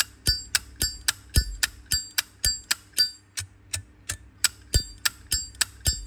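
Zippo lighter's hinged metal lid being flicked open and snapped shut over and over, a rapid run of sharp metallic clicks with the lighter's ringing 'ding', about three to four a second.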